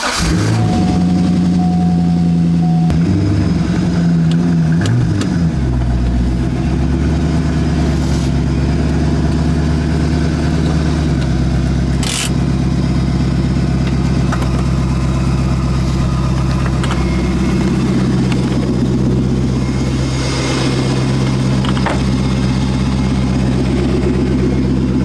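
C5 Corvette's 5.7-litre V8 running at a fast cold-start idle that drops to a lower, steady idle about five seconds in, as it warms up on a freezing morning. A single sharp click sounds about halfway through.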